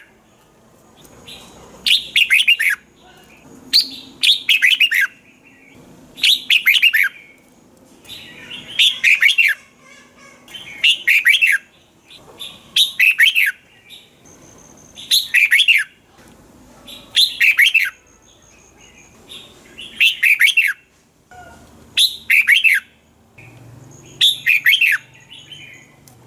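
Red-whiskered bulbul singing short, quick phrases of falling notes, one phrase about every two seconds.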